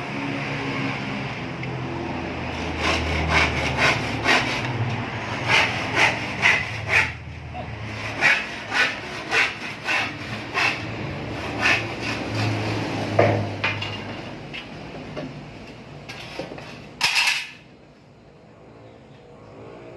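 Rhythmic scraping strokes of a hand tool working a part, about two strokes a second, over a steady low hum, with one longer, louder scrape near the end.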